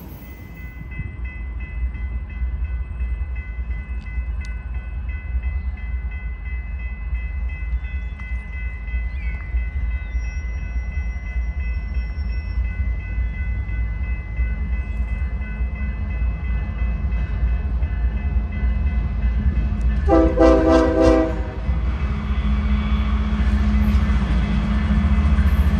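Diesel freight locomotive approaching with a steady low rumble that grows louder, sounding its horn in one short blast about twenty seconds in. Wheel and rail noise builds as the train nears.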